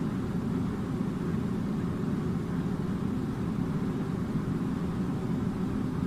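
Steady low rumbling noise, unchanging throughout.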